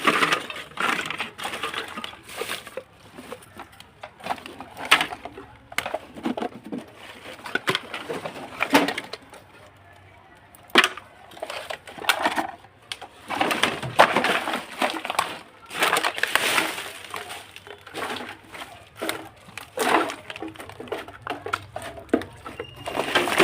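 Hands working on a small plastic electronic device: an irregular run of clicks, knocks and short scrapes.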